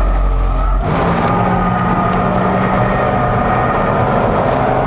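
Corvette ZR1's supercharged 6.2-litre V8 heard from inside the cabin: the engine note drops away briefly during a gear change on the six-speed manual, then comes back and pulls steadily under load.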